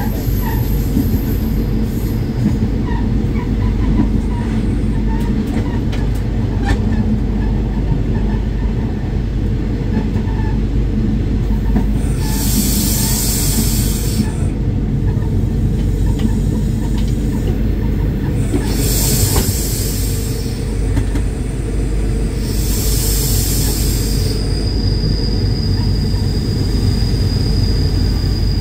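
Train running, heard from the driver's cab: a steady low rumble of wheels and running gear on rail, with three bursts of hiss, each lasting a second or two, in the second half. A thin, steady high whine comes in near the end as the train pulls into a station.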